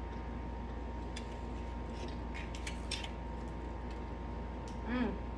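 Faint clicks and crunches of someone chewing fried chicken, over a steady background hum. A short falling "mm" of enjoyment near the end.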